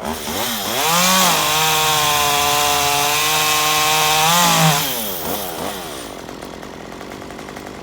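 Chainsaw revving up, held at full throttle for about three and a half seconds, then dropping back to idle.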